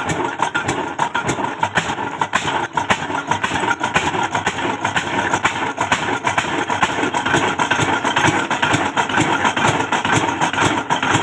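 Old diesel engine of a tube well running steadily, with a rapid, even knocking.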